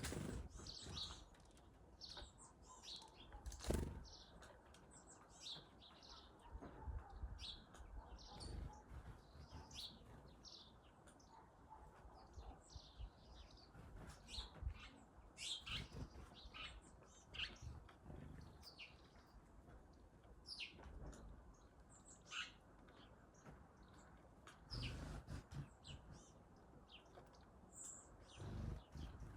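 Small birds chirping: many short, high chirps scattered irregularly, with a few soft low thumps in between.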